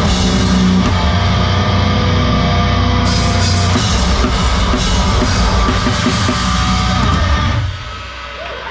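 Live heavy rock band playing loud, with a pounding drum kit and cymbals under the guitars. The song stops abruptly near the end, leaving much quieter room noise.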